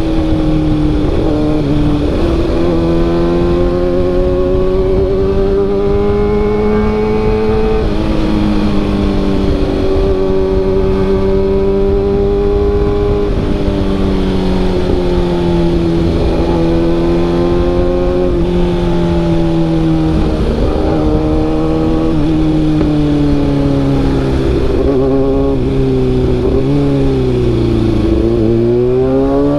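Kawasaki ZX-6R inline-four engine running through an SC Project CRT carbon-sleeve exhaust while the bike is ridden. The revs rise and fall gently under part throttle and dip several times, falling deepest and then climbing again near the end.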